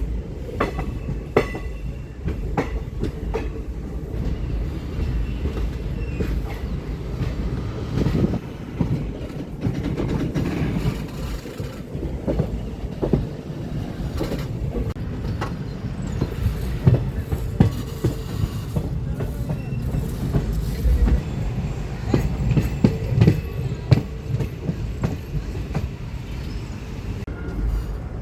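Passenger train running along the line, heard on board: a steady low rumble with wheels clacking over rail joints at irregular intervals.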